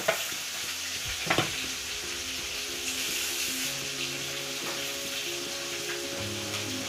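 Oil sizzling steadily in a steel kadai as tomato pieces and dried red chillies fry with salt, with two sharp knocks in the first second and a half. Soft background music with held notes plays under the sizzle from about a second and a half in.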